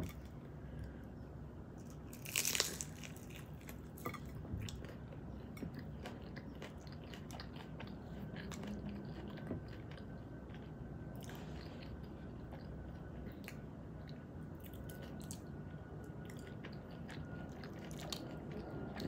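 A bite into a crispy fried rolled taco of vegan chicken and cauliflower, with one loud crunch about two and a half seconds in, then long chewing with small crunches and mouth clicks. The cauliflower filling makes for a lot of chewing.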